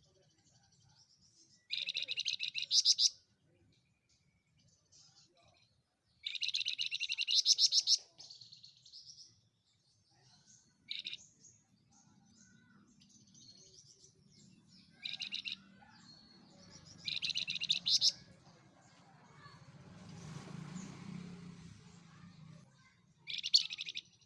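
A flamboyan songbird singing in repeated bursts of rapid, trilled notes, each burst about a second long, with pauses and softer notes between. A faint low background noise swells briefly near the end.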